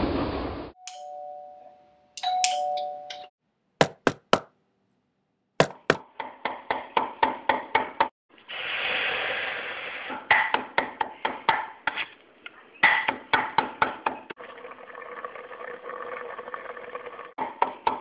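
A two-note doorbell chime sounds twice. Three sharp knocks follow. Then comes long, rapid, even chopping, about five strokes a second, broken by short pauses, over a steady hiss.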